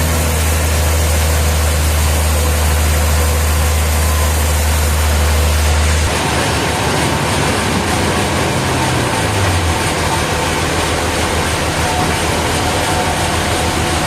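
Heavy sawmill machinery running with a steady low hum. About six seconds in, the hum gives way to a rougher, noisier sound, with a tone that slides downward a couple of seconds later.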